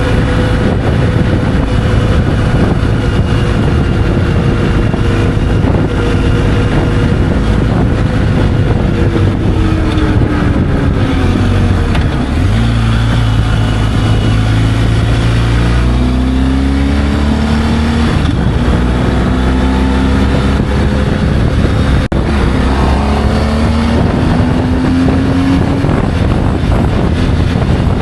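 Motorcycle engine running while riding, with a steady rush of wind and road noise. The engine note falls as it slows about ten seconds in, then climbs in several steps through the gears as it speeds up again.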